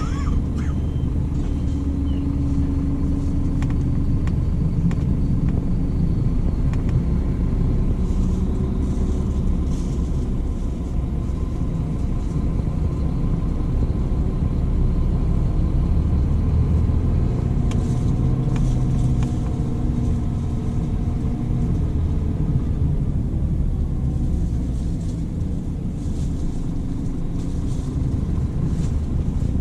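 Scania coach's diesel engine running, a steady low rumble.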